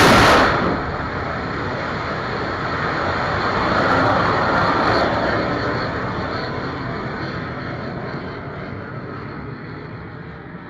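Kalibr cruise missile after launch: the loud launch blast cuts off about half a second in, then a steady roar that swells briefly and fades gradually as the missile flies away.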